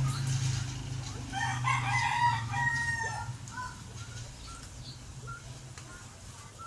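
A rooster crows once, a drawn-out call of about two seconds starting a little over a second in. After it comes a string of short, soft chirping calls, roughly one or two a second.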